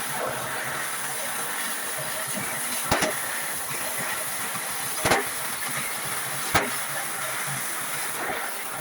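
A steady hiss with three sharp knocks, about three, five and six and a half seconds in.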